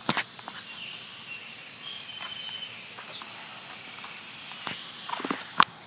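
Outdoor storm ambience: a steady background hiss with a few faint, short, high chirps, and a sharp knock just after the start and another about five and a half seconds in.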